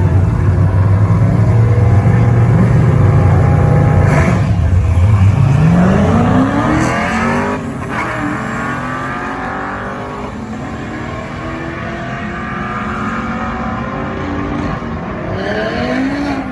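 LS V8 engine in a Nissan S-chassis drift car, running with a low, heavy note at the line, then launching. The revs climb steeply and drop back at each gear change as the car pulls away, and the sound grows fainter.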